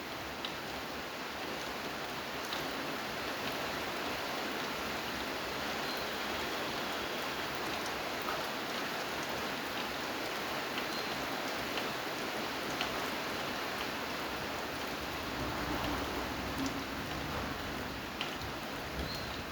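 Steady rain falling, a continuous patter with scattered individual drips ticking on a surface.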